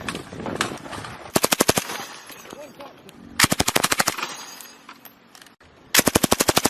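Belt-fed machine gun firing three short bursts of automatic fire, about two seconds apart, each at roughly a dozen rounds a second. The last burst is still going at the end.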